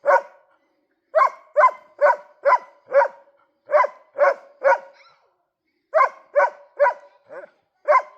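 A dog barking at a moose: sharp barks about two a second, in runs of three to five with short pauses between.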